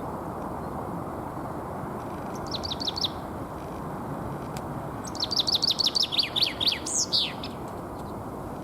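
Male common chaffinch singing its territorial spring song: a brief fragment of quick notes, then about five seconds in a full phrase of rapid falling notes ending in a flourish. Underneath is a steady low background rumble.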